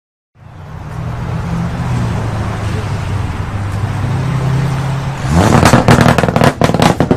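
Car engine running with a low, steady rumble, then revving up hard about five seconds in, with a quick run of loud, sharp cracks as it pulls away.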